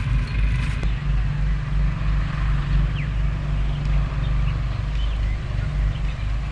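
Steady low rumble of a running engine, with a few faint short high chirps over it.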